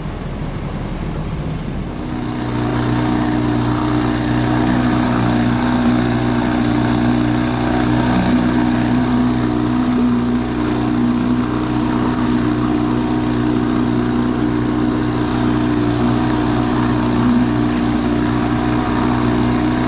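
Small antique outboard motor running steadily, growing louder about two seconds in.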